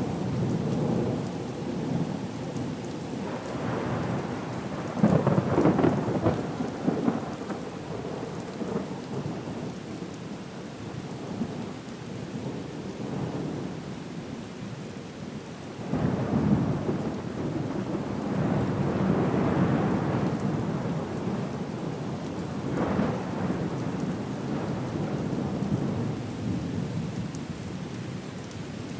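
Storm ambience: steady rain with rolling thunder that swells and fades several times, loudest about five seconds in and again about sixteen seconds in.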